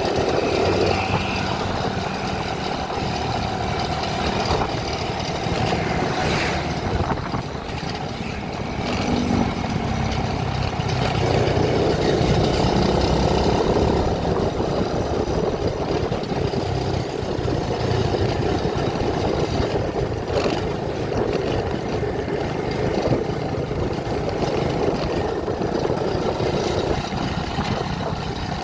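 A vehicle engine running steadily, rising and falling a little in level.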